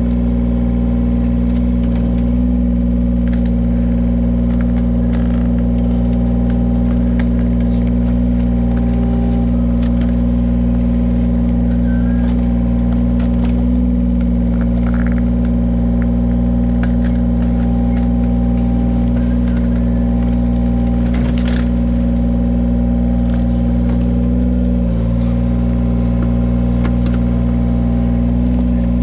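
Engine of a firewood-splitting machine running steadily, its pitch dipping briefly a couple of times as it takes load, with a few faint knocks over it.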